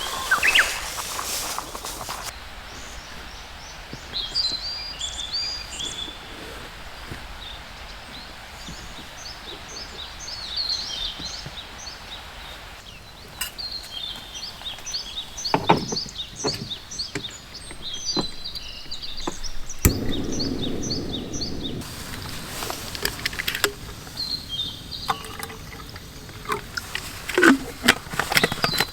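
Small birds chirping in short repeated phrases, with a few sharp knocks and clatters in between.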